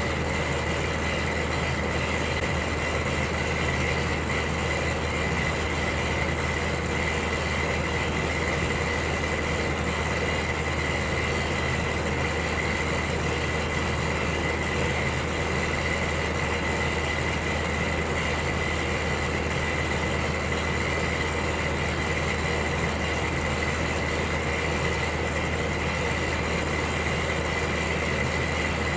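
Electric heater running with a steady hum under an even rushing noise, with a thin steady high tone on top.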